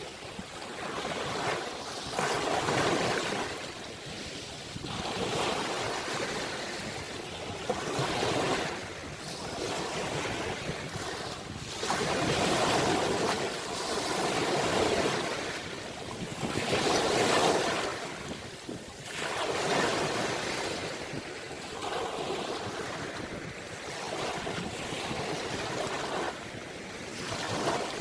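Ocean waves breaking and washing up on the shore, surging and receding in repeated swells every few seconds.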